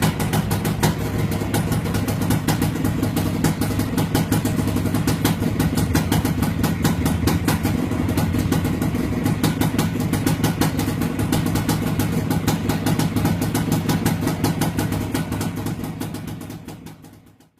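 Motorcycle engine idling steadily with a fast, even firing pulse, fading out near the end.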